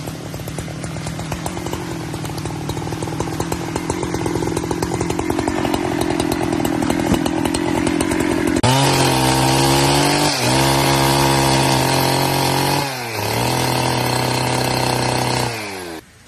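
Two-stroke chainsaw running, building to full throttle about halfway through and held high with two brief dips, then shut off abruptly near the end.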